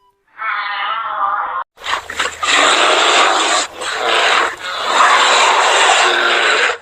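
An animal's short pitched call, then loud, rough, repeated animal cries with brief breaks between them.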